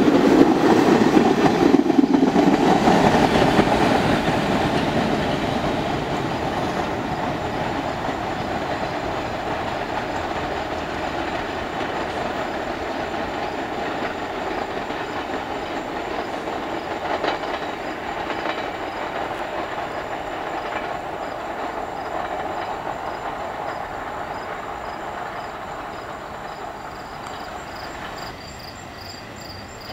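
Staten Island Railway R44 train passing close at speed, then its rumble slowly fading as it runs away down the line. Crickets chirp faintly toward the end.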